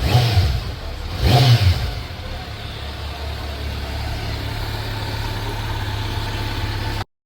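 Kawasaki Z900 inline-four engine through an aftermarket exhaust, blipped twice in quick succession and then idling steadily. The sound cuts off abruptly near the end.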